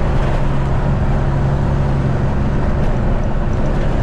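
Semi-truck engine running steadily with road noise, heard from inside the cab while it pulls a loaded refrigerated trailer: a constant low hum.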